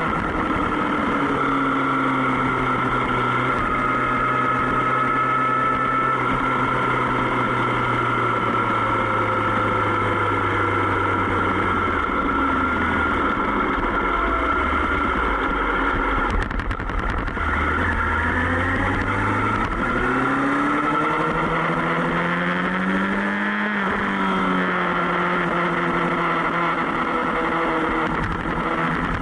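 Sport motorcycle engine running under way, with its pitch holding steady, then dropping and rising again several times as the throttle and gears change, over a steady rushing noise.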